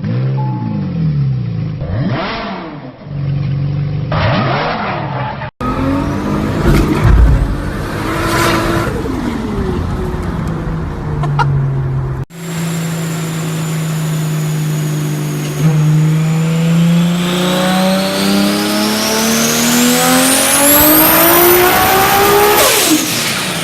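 Turbocharged Toyota Supra engines in three short clips. The first two rev up and down. The last is a long pull in which the engine note climbs steadily with a high turbo whistle rising over it, then drops off sharply near the end.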